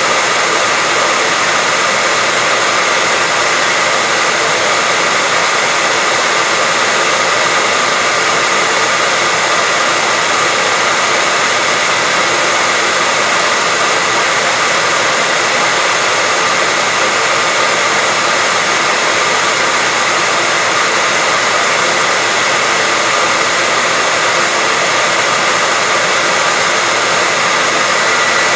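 Hair dryer running steadily, a constant blowing noise with a steady whine.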